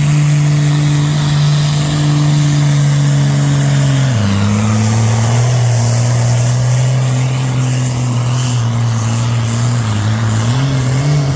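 Hot farm class pulling tractor's engine running hard under load while pulling the sled. It holds a high, steady pitch, drops sharply about four seconds in as the engine is pulled down, and rises a little near the end.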